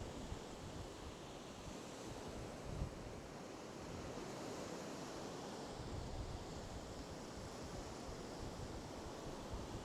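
Sea surf washing steadily in over small boulders, an even, constant hiss.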